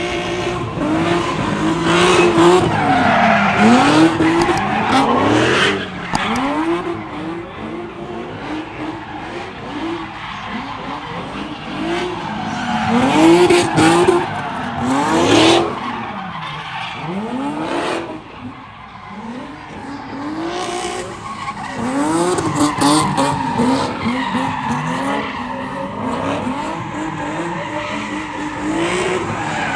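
A car doing donuts in a car pit: the engine revs up and down over and over while the tyres squeal and skid.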